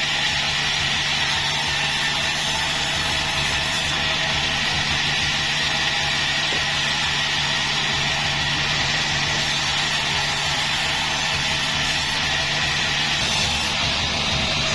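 Sawmill machinery running steadily, a constant mechanical drone with a high whine over it.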